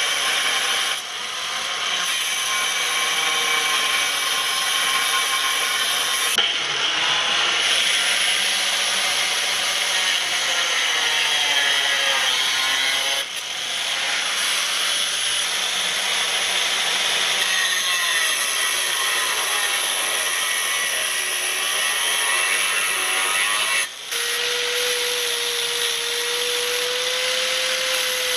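A power tool running under load on the crucible workpiece, its pitch wavering throughout. The sound breaks off abruptly several times. In the last few seconds a steady whine joins it.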